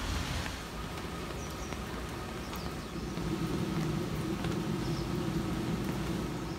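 A motor vehicle's engine running close by: a low hum rises in about three seconds in and holds for a few seconds, over a steady background hiss.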